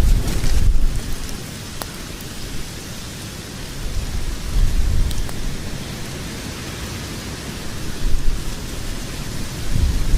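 Logs burning in a fireplace: an uneven low rumble of the flames that swells and eases, over a soft hiss, with a few sharp crackles from the wood.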